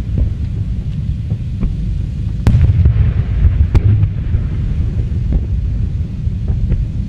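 Aerial fireworks going off: a continuous low rumble of shell bursts with sharp bangs about two and a half and four seconds in, and lighter cracks between.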